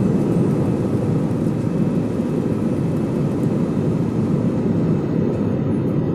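Airbus A320 jet engines running, a loud steady deep rumble with a faint steady whine above it.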